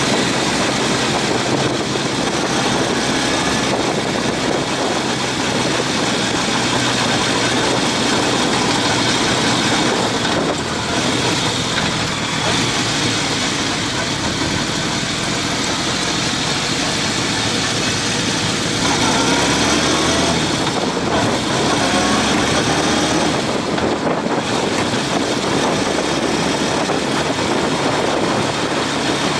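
Motorcycle engine running under a steady, loud rush of noise, with a few short rising engine notes about two-thirds of the way through.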